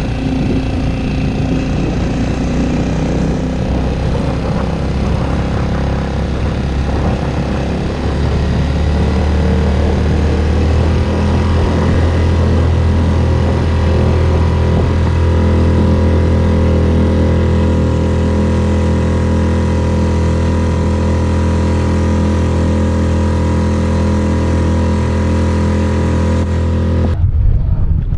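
Small dinghy outboard motor running steadily, speeding up a little and growing louder about eight seconds in. About a second before the end the sound cuts off abruptly.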